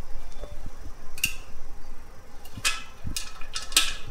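Pressure canner lid being unclamped: a few sharp metal clicks and short scrapes as the clamping knobs are loosened, the canner already vented and depressurised.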